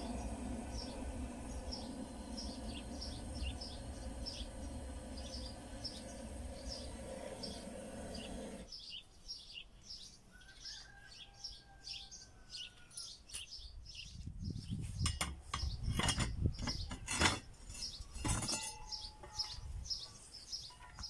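Small bird chirping over and over, two or three short high chirps a second. A steady low hum underneath cuts off suddenly about nine seconds in, and a run of clicks and low thumps comes near the end.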